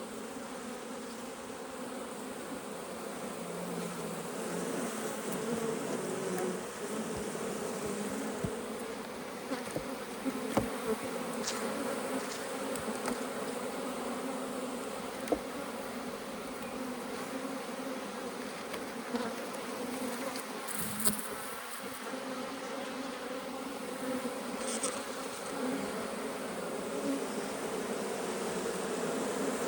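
Honeybee colony buzzing steadily from an opened hive, with a few light clicks and knocks from the hive parts being handled.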